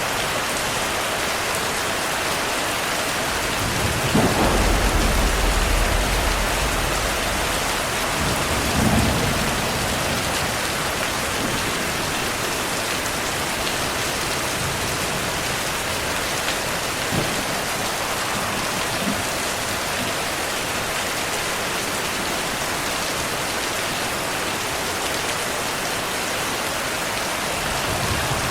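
Steady rain hiss with thunder: a low rolling rumble about four seconds in that lasts a few seconds, a second shorter rumble near nine seconds, and two faint sharp cracks later on.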